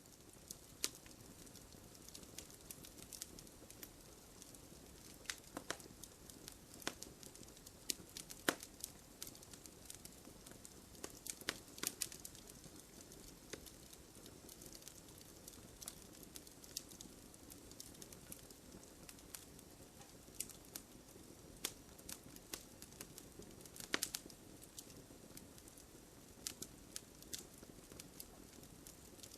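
Wood bonfire crackling: irregular sharp pops and snaps, some louder than others, over a soft steady hiss of burning.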